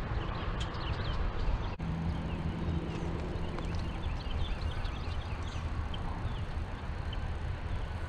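Outdoor riverside ambience: many small birds chirping in short, quick notes over a steady low rumble. A low hum runs underneath for a couple of seconds near the start.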